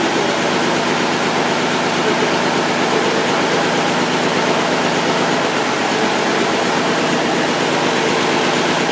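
Gardner 6LW six-cylinder marine diesel engine running steadily, freshly overhauled and with its idle speed not yet set.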